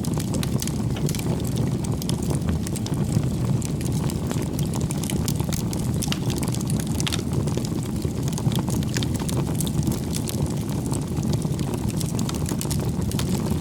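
Campfire of burning firewood: a steady low rumble of flames with dense, irregular crackling and popping of the wood.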